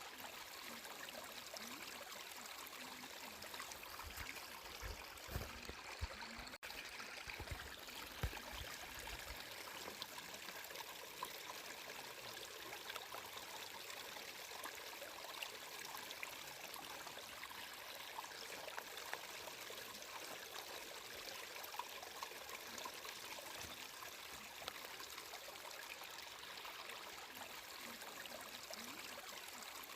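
Water flowing and trickling in a stream, an even, steady rush. A few soft low thumps come between about four and nine seconds in.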